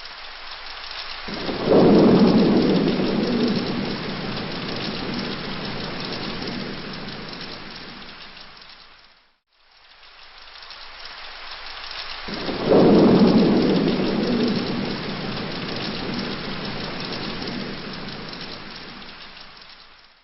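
Steady rain with a thunderclap that breaks about a second in and rumbles away over several seconds. The same rain-and-thunder recording then plays again identically, each pass fading in from silence and fading out.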